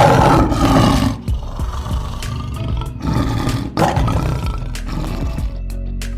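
Lion roaring: a long rough roar at the start and a second one about three seconds in, over soft background music.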